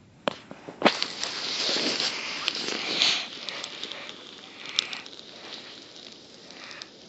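Small campfire crackling: a couple of sharp pops, then a dense rush of crackle and hiss for about three seconds that fades to scattered quieter crackles.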